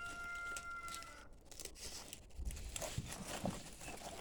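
A rooster crowing, one long held call that ends about a second in. Then rustling and crackling with a few sharp knocks.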